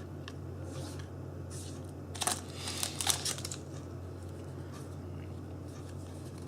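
Brief rustling and crinkling of trading cards and a booster pack being handled, about two seconds in, over a low steady hum.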